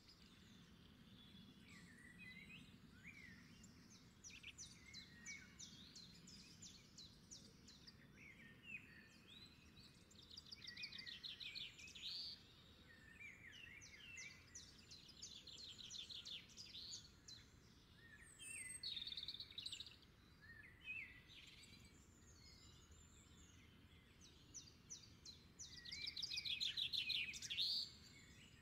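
Several small birds singing and calling: rapid trills and short chirps that come and go, loudest near the end.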